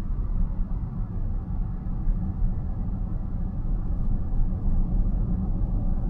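Steady low road and tyre rumble of a car cruising on a highway, heard from inside the cabin.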